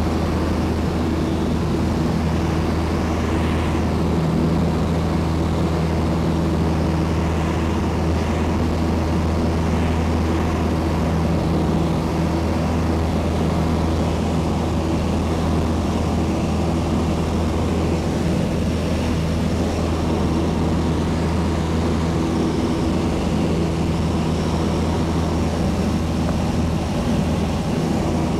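Piper Cherokee's piston engine and propeller running steadily at constant power, a loud even drone with no change in pitch.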